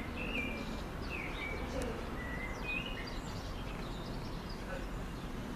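A bird chirping several short times during the first three seconds, over a steady low background hum of outdoor noise.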